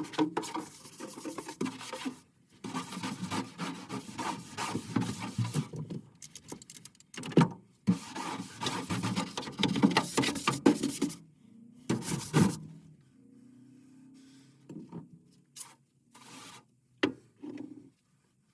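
Hand scraping and rubbing on furnace parts during cleaning: irregular runs of scraping strokes with short pauses, thinning after about eleven seconds to a few separate knocks and short scrapes.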